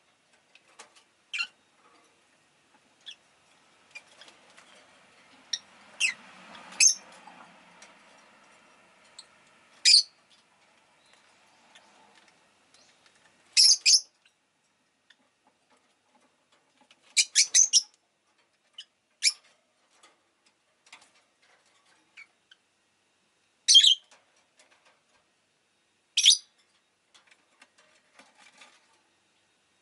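Rosy-faced lovebird giving short, sharp, high-pitched chirps every few seconds, some in quick runs of two or three. Faint street noise swells and fades between about four and eight seconds in.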